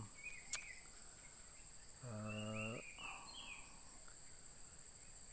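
Steady high-pitched drone of insects with a few short bird chirps, and a brief hummed 'mmm' from a man about two seconds in.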